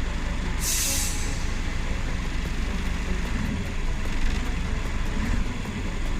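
Scania truck's diesel engine running with a steady low rumble, and a short hiss of released air, as from the air brake system, about half a second in.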